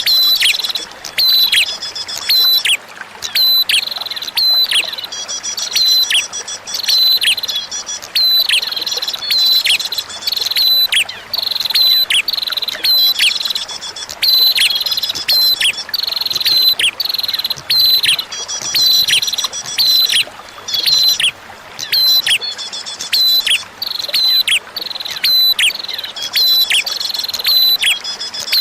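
Prenjak (prinia) calling over and over in quick sharp down-slurred notes, about two a second, broken every few seconds by a short buzzy trill, over a faint trickle of running water.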